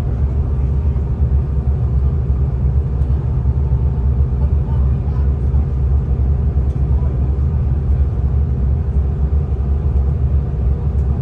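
Steady low rumble of a V/Line diesel passenger train running along the track, heard from inside the carriage, with a few faint clicks.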